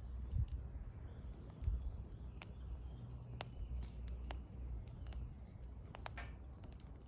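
Firewood burning in an open campfire: scattered sharp crackles and pops, the loudest about halfway through, over a low steady rumble.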